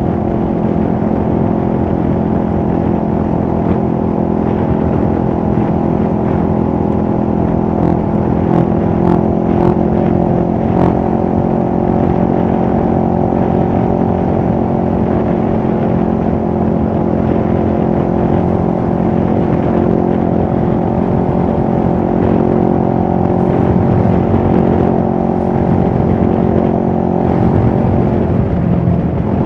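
CFMoto 650NK's parallel-twin engine running at steady revs, its pitch holding level, then falling near the end as the revs drop.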